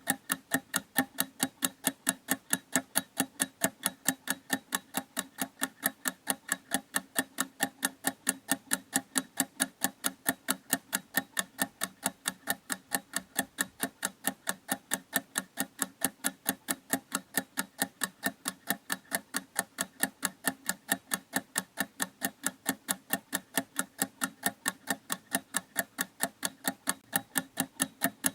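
Clock ticking steadily, with even, sharp ticks at about three a second.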